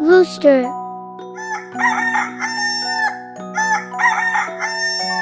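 Rooster crowing twice, each crow lasting about a second and a half.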